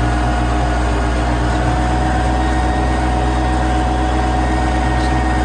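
Tractor engine running steadily at a constant speed, a loud, unchanging low hum.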